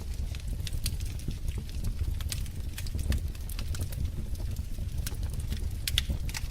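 Log fire crackling: irregular sharp pops and snaps over a steady low rumble of burning wood.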